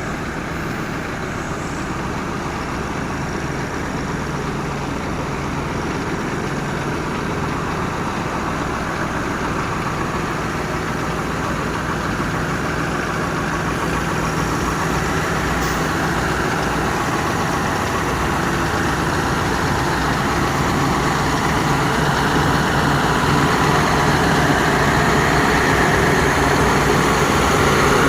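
Heavy diesel truck engine running steadily at low revs, slowly getting louder.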